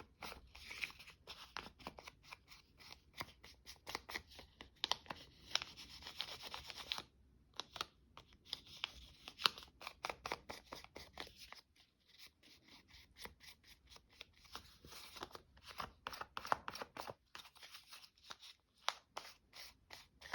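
Paper and card being worked by hand: many quick, crisp scratchy strokes and clicks, with short lulls about seven seconds in and again near twelve seconds.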